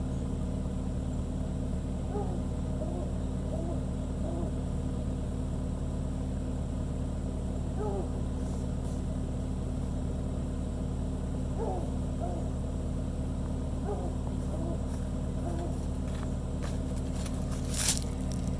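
John Deere 450B crawler's engine running steadily, with faint short squeaks over it; near the end a few sharp clanks, one much louder than the rest.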